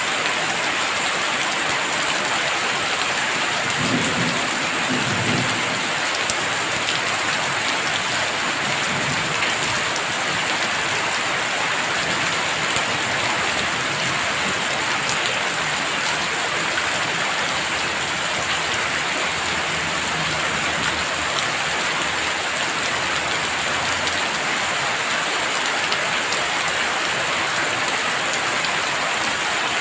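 Heavy rain falling steadily on the ground and surfaces. Distant thunder rumbles low, beginning about four seconds in and fading out over the following seconds.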